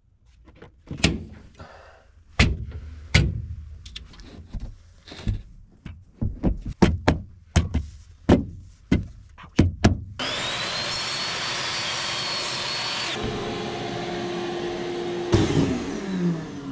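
Scattered knocks and clicks of panels and hardware being handled for about ten seconds, then an electric motor starts and runs steadily with a high whine for about five seconds, changes note, and spins down with a falling pitch near the end.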